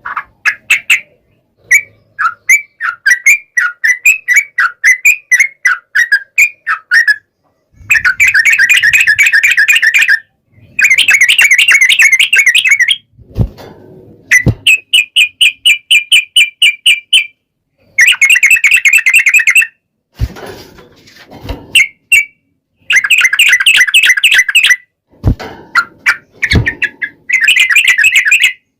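Yellow-vented bulbul (trucukan) song: bursts of fast, chattering, bubbly phrases separated by short pauses. A few brief dull knocks come in the middle and later part.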